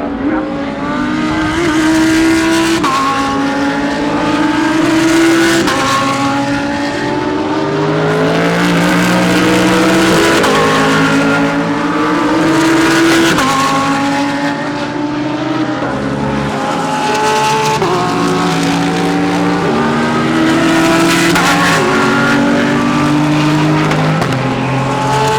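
Several GT3 race car engines running hard together, each rising in pitch and dropping back at every upshift, overlapping continuously as the cars go by.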